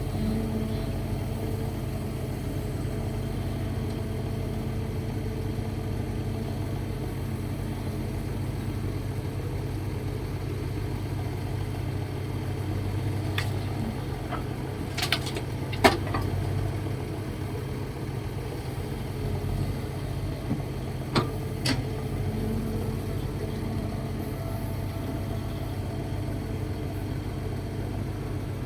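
Kobelco SK135SR hydraulic excavator's diesel engine running steadily under work, with a few sharp clanks, the loudest about halfway through and two more a few seconds later.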